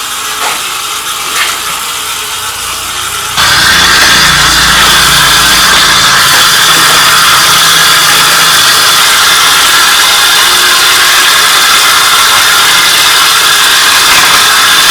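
A machine's motor starts abruptly about three and a half seconds in and runs steadily and loudly, with a low rumble and a steady high whine.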